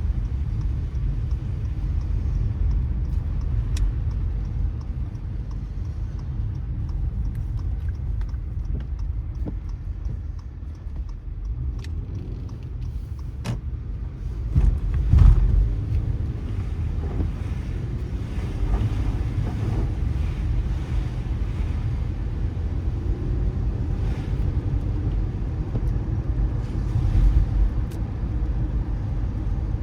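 Car driving on wet city streets: a steady low rumble of tyres and engine, with a louder swell about halfway through and scattered light clicks.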